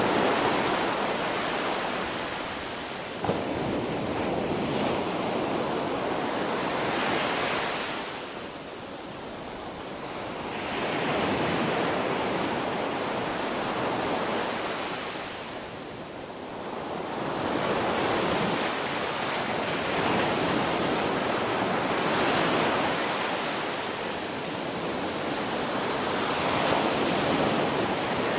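Ocean surf breaking on a beach: a continuous rush of waves that swells and ebbs every several seconds. There is a single sharp click about three seconds in.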